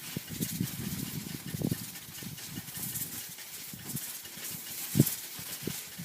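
Small homemade can boiler on the boil: steam hissing out of the punched hole while the boiling water sputters and pops irregularly, with one louder pop about five seconds in.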